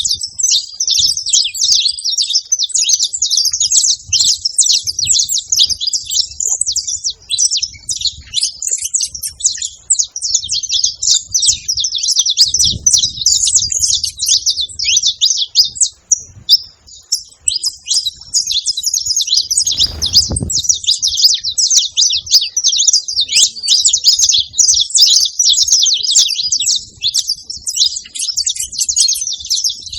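Saffron finches singing: a dense, continuous run of rapid high chirps and trills, briefly pausing about halfway through. A short low rumble sounds about two-thirds of the way in.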